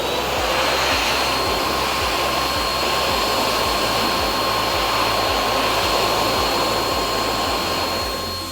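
High-speed automatic hand dryer with an 800 W universal motor running at full speed: a strong rush of air with a steady high whine. It fades out near the end.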